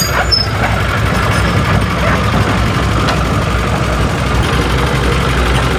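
Heavy diesel engine of construction machinery running steadily with a low, even rumble.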